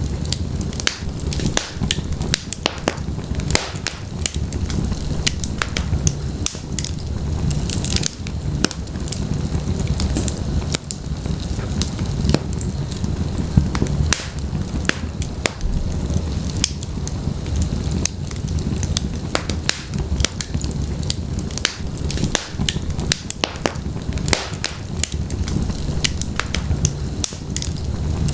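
Burning logs in a fireplace crackling, with frequent sharp, irregular pops over a steady low rumble of the flames.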